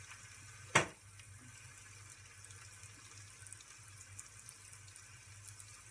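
Diced potatoes, carrots and onion frying in oil in a wide pan, giving a steady faint sizzle as salt is sprinkled over them. A single sharp tap of a utensil against the pan comes about a second in.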